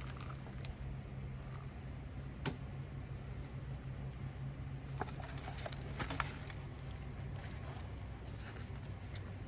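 Quiet room tone: a low steady hum with a few scattered faint clicks and small handling noises.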